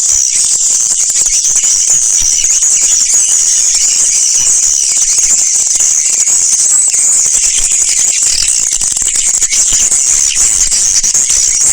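Continuous high-pitched chirping and twittering of swiftlets, a swiftlet lure-call recording of the kind played to draw the birds into nesting houses.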